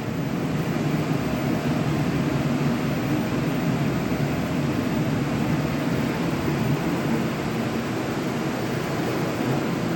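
Drying-zone blower of a Hobart PROFI CN-L-A-A conveyor dishwasher, its DS drying module, running with a steady rush of air and a faint hum, just started and still heating up.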